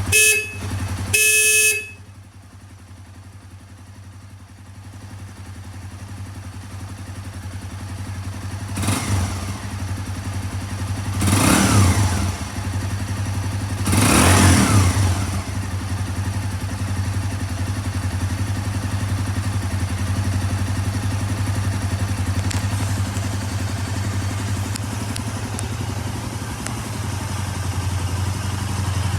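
Two short horn beeps from a Honda GB250 Clubman, while its single-cylinder engine idles. The engine is then blipped three times, revving up and falling back, before settling to a steady idle.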